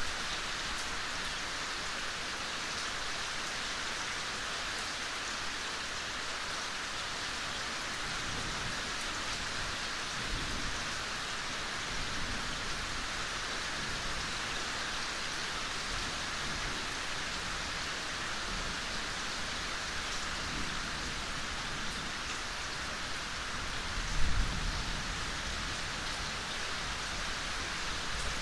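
Steady gentle rain falling, an even hiss throughout. A few soft low rumbles come through, and there is one brief low thump about three-quarters of the way in.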